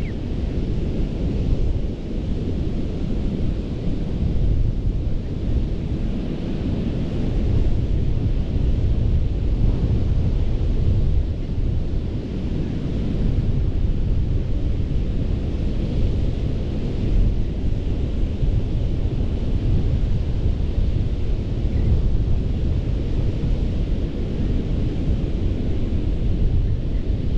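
Ocean surf washing onto a sandy beach in a continuous rushing wash. The hiss of the breaking water swells and fades every few seconds over a steady low rumble.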